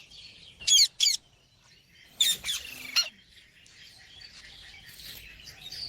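Pet ring-necked parakeet calling: two short, sharp high chirps about a second in, then a louder burst of calls around two to three seconds in.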